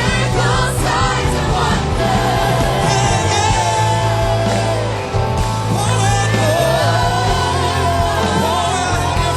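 Live church worship band playing loud, with singing voices over a steady bass and drums.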